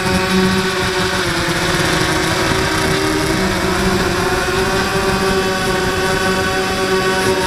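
Small quadcopter's electric motors and propellers whining steadily, several tones drifting slightly up and down in pitch as the throttle changes.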